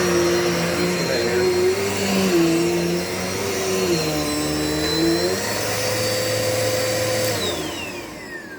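Dirt Devil Multi-Surface vacuum cleaner running, its motor pitch stepping up and down as the suction load changes. About seven seconds in it is switched off, and the motor winds down with a falling whine.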